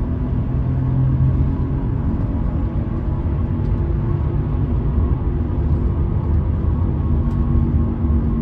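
2010 Toyota Sienna driving with a steady low roar and hum from the right-side wheel area, a noise the owner takes for a wheel bearing even though he replaced that bearing a week ago.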